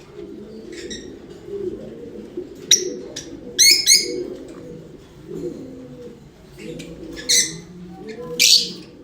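Lovebirds giving short, shrill chirps, about five sharp calls with the loudest near the end, over a continuous low cooing warble.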